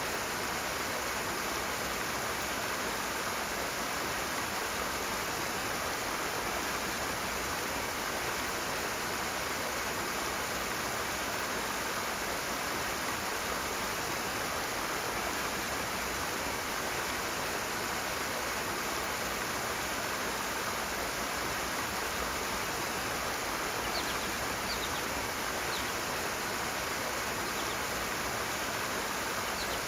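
Rushing water: a steady, even rush of fast-flowing water that does not change.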